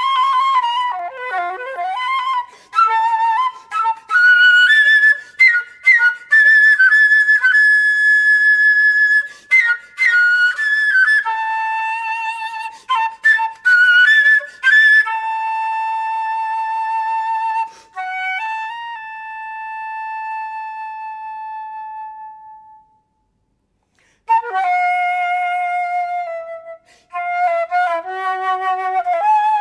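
Solo concert flute playing a free melody: bending, sliding notes at first, then quick runs, a long held note with a slight waver that fades away, a brief pause, and a new phrase starting.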